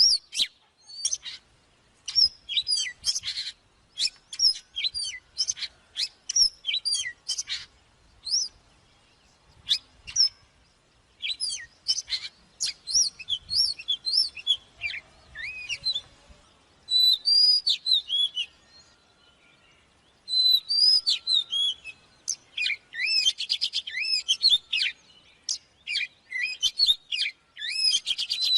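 Oriental magpie-robin singing: a rapid, varied song of clear whistled notes, upslurs and downslurs, delivered in bursts of phrases with brief pauses between them.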